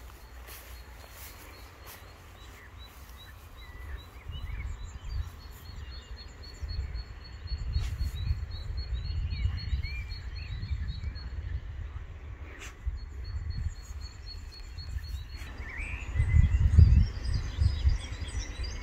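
Birds chirping: an even run of short, high chirps, a few a second, that stops near the end, with other scattered chirps. Under them is a gusty low rumble on the microphone that is loudest near the end.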